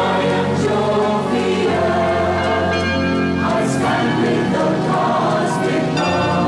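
Congregation singing a slow devotional hymn together, with a keyboard playing sustained chords underneath.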